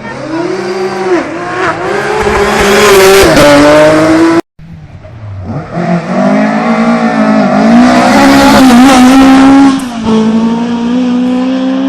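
Rally car engine revving hard as the car drifts past, its pitch climbing and dropping with throttle and gear changes. The sound cuts off abruptly about four and a half seconds in, then a second rally car approaches and passes the same way.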